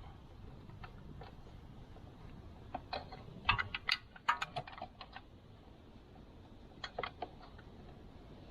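Irregular sharp clicks and light metallic taps of a hand tool being handled and fitted while removing a motorcycle's oil filter, in a busy cluster about three seconds in and a few more near seven seconds.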